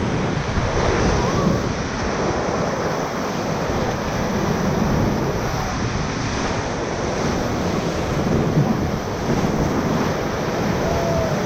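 Whitewater rapids rushing steadily and loudly around a raft, with wind buffeting the microphone.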